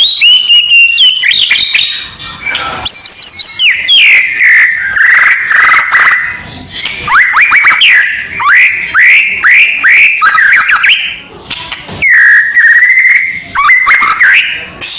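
White-rumped shama (murai batu) song: loud, rich whistled phrases with quick sweeping notes. About halfway through comes a run of fast repeated strokes, with brief pauses between phrases.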